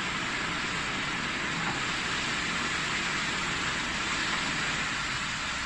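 Freshly added raw chicken pieces sizzling steadily as they sear in a hot stainless steel wok, with a steady low rumble underneath.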